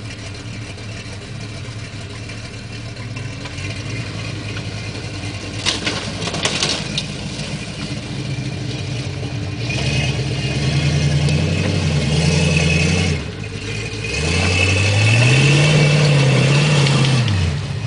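Off-road 4x4's engine running and revving, getting louder in the second half with two revs that rise and fall in pitch. A couple of sharp knocks about six seconds in.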